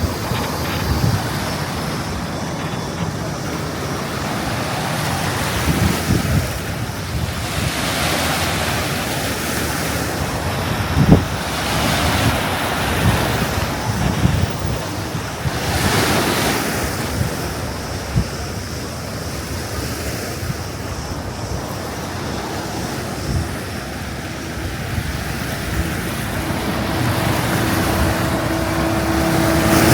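Mediterranean sea waves washing onto the shore, swelling and falling every few seconds, with wind on the microphone.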